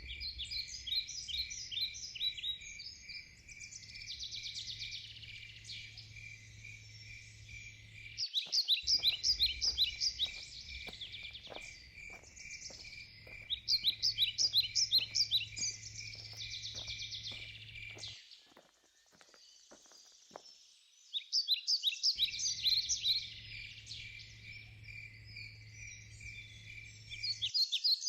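Birdsong in repeated bursts of rapid chirping phrases over a steady, evenly pulsed insect chirping, with a low steady hum underneath; the sound thins out for a few seconds past the middle.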